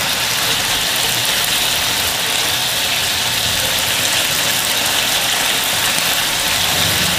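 Chicken pieces sizzling steadily in a nonstick frying pan while being stirred with a silicone spatula, as the water in the pan cooks off.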